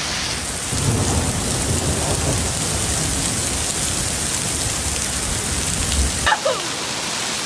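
Heavy rain pouring down in a thunderstorm as a steady hiss, with a low rumble underneath that stops abruptly about six seconds in.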